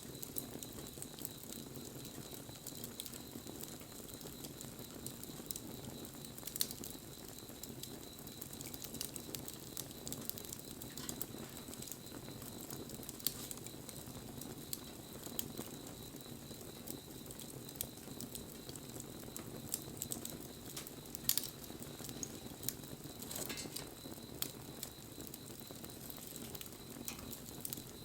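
Bonfire burning: a steady low rush of flames with frequent small crackles and a few sharper pops.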